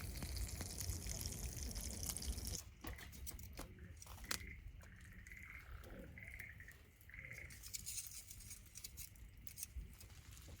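Food sizzling in a pan, which cuts off abruptly about two and a half seconds in. A quieter stretch follows, with scattered light clicks and a few faint, short high chirps.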